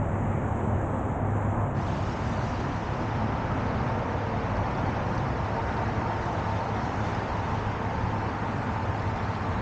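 Tow truck running, a steady low vehicle rumble with a faint high whine over it.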